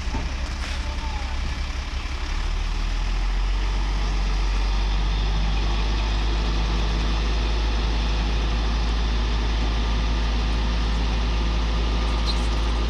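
Heavy truck engine running steadily with a deep rumble that grows louder about two to three seconds in and then holds.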